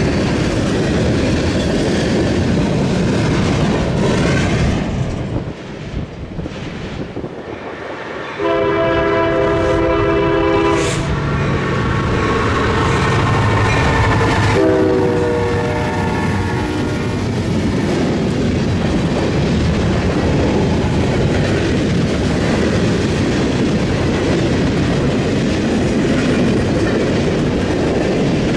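Train rolling past with steady wheel noise and clickety-clack over the rail joints, and a locomotive air horn sounding two blasts, a longer one about eight seconds in and another about fifteen seconds in.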